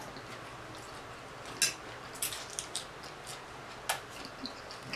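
Close-miked chewing of a mouthful of raw salad greens (spring mix, spinach and arugula): a scatter of short, crisp crunches and mouth clicks over a steady hiss, the loudest about a second and a half in and again near four seconds.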